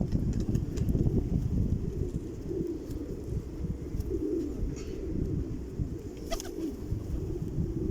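Pigeons cooing: a few low coos spaced a second or two apart, over a steady low rumble.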